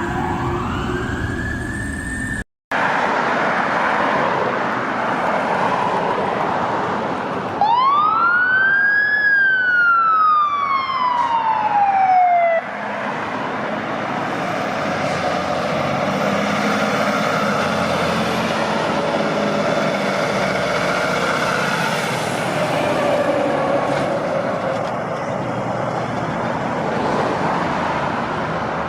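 Fire truck siren. It winds up in the first two seconds, then after a brief break gives one loud sweep about eight seconds in that rises quickly, falls slowly and cuts off abruptly. Truck engine and road noise run underneath.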